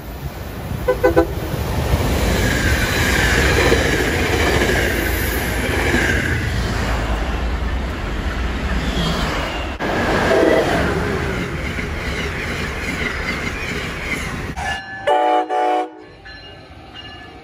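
A train passing through a station at speed: a long, heavy rumble with rail noise. About fifteen seconds in, the sound cuts abruptly to two short blasts of a train horn.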